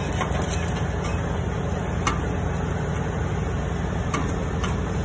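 A steady mechanical hum with a constant tone running under it, and a handful of sharp clicks at uneven intervals, as of tools at work on a car.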